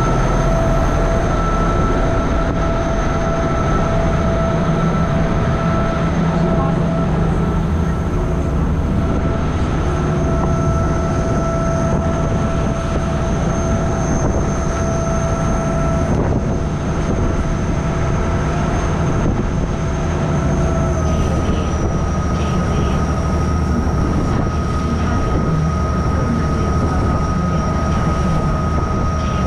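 Chao Phraya river boat's engine running steadily under way: a deep rumble with a high whine that drops slightly in pitch about two-thirds of the way through.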